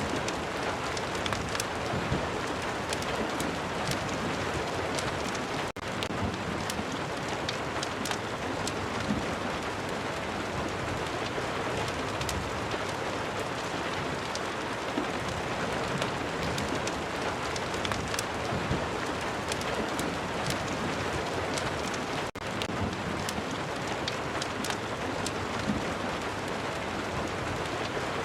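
Steady rain ambience mixed with a crackling fireplace: a dense, even hiss of rain with many sharp little crackles scattered through it. The sound drops out for an instant twice.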